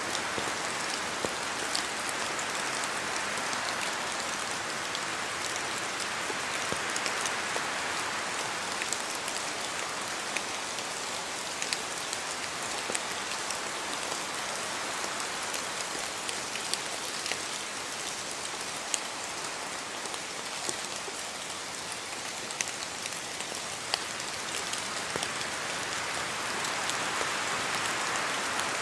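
Steady rain falling in a forest, with many separate drops ticking on leaves over a continuous rush. The rush swells a few seconds in and again near the end.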